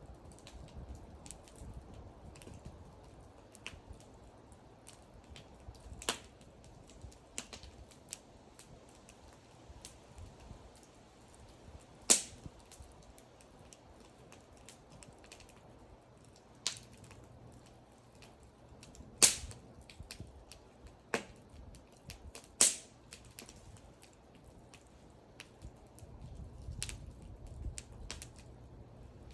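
Wood fire crackling: scattered small clicks over a low rumble of flame, with a few loud sharp pops from the burning wood, the loudest about twelve, nineteen and twenty-two seconds in.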